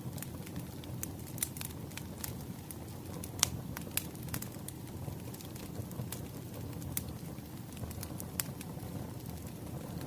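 Wood fire crackling: a steady low rumble of burning logs with scattered sharp pops and snaps, the loudest about three and a half seconds in.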